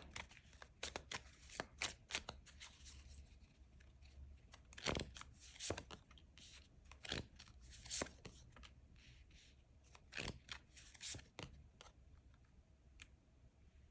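Tarot cards being handled and shuffled: faint, scattered card snaps and rustles at irregular intervals.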